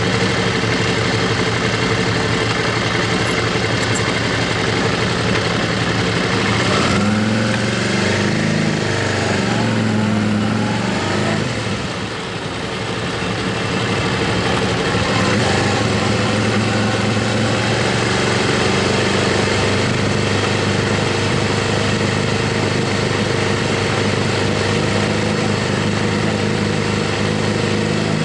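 Motorcycle engine running steadily while riding, under wind rush, its note shifting several times early on and dipping briefly in the middle as the revs ease off.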